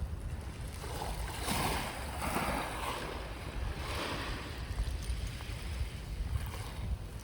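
Sea waves washing in and out in surges, a louder surge in the first half and another about four seconds in, over a steady low rumble.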